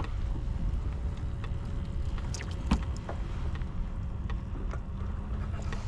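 Steady low rumble of water and wind around a fishing kayak, with scattered light clicks and knocks from handling in the boat.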